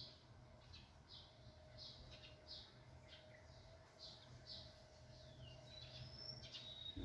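Faint bird calls: a series of short, high chirps, about one or two a second, then a few longer whistled notes near the end.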